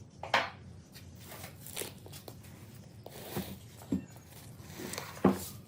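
Scattered knocks and taps, five or so spread out, the sharpest one about five seconds in.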